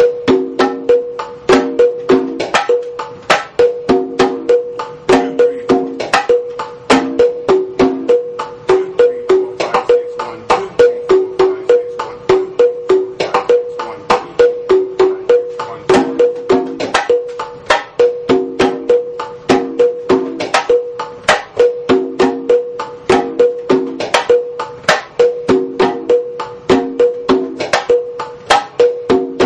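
Batá drums struck by hand in a fast, steady repeating rhythm, with sharp slaps and open tones at several distinct drumhead pitches.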